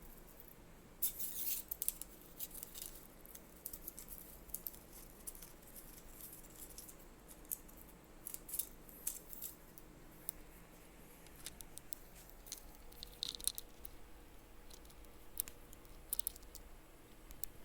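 Scattered bursts of light rustling, scratching and clicking as a cat plays, with the clusters coming irregularly every few seconds.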